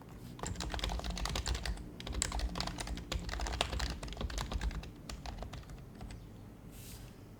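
Typing on an HHKB Professional HYBRID Type-S keyboard with Topre switches: two quick runs of keystrokes with a short break at about two seconds, then a few scattered keys. Near the end there is a brief soft brushing sound.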